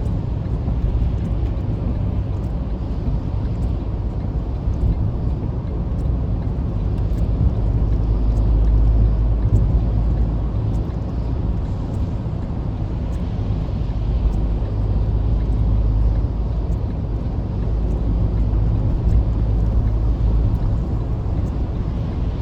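Steady low rumble of road and engine noise heard from inside a car cruising on a highway, swelling a little midway.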